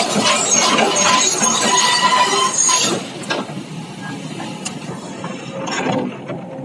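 Excavator's steel tracks and undercarriage screeching and clanking, a grating metal-on-metal squeal, as the machine drives down off a truck. Loud for about three seconds, then quieter with scattered clanks.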